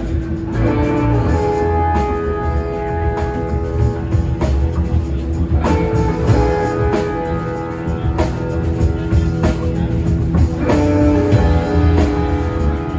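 A live rock band playing an instrumental passage: electric guitar chords over bass and a drum kit, the chords restruck about every five seconds.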